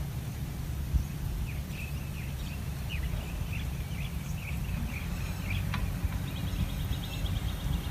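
Small birds chirping: a string of short high chirps, then a fast, high, buzzy trill starting about six seconds in, over a steady low rumble of background noise.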